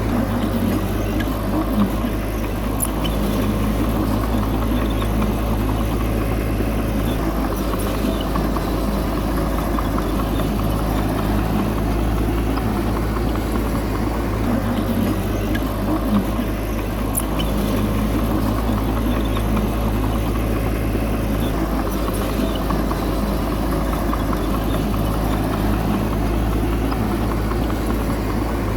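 Heavy diesel engine of earthmoving machinery running steadily at a constant pace, with a few faint clicks.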